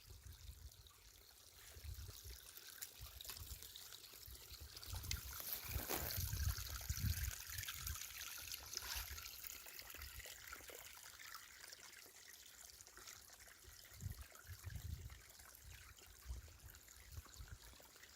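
Water trickling, with low gusts of wind rumbling on the microphone.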